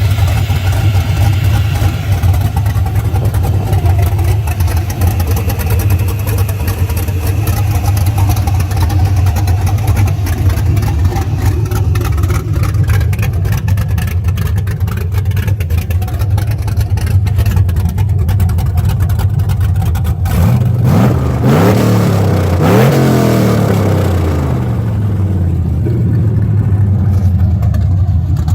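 Cammed 5.3L LM7 V8 with a BTR Stage IV truck cam, breathing through long-tube headers, idling with a lopey cam idle. About two-thirds of the way through it is revved up and let fall back to idle.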